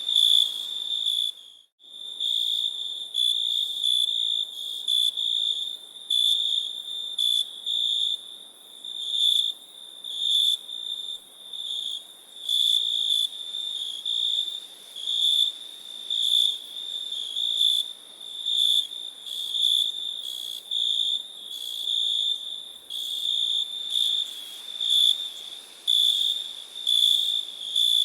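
Crickets chirping: a high, steady trill near 4 kHz in repeated short pulses, with a brief gap about a second and a half in, over a faint hiss.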